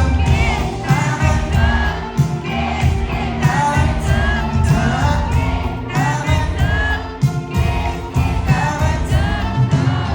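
Thai pop-rock band playing live with a lead singer over drums and bass, recorded from within the concert crowd.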